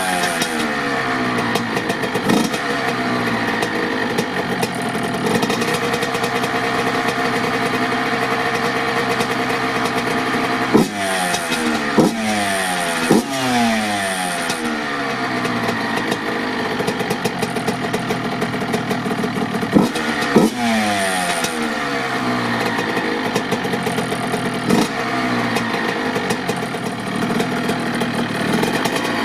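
Honda CR85's 85cc single-cylinder two-stroke engine running. It holds a steady speed at first, then takes several sharp throttle blips, each rising quickly and falling away in pitch.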